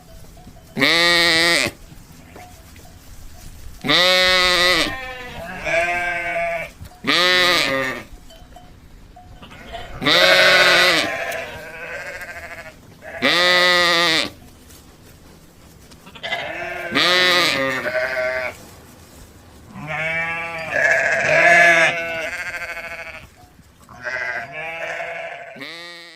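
Livestock bleating: a series of about a dozen quavering bleats, each roughly a second long, some coming in quick pairs, with short quiet gaps between.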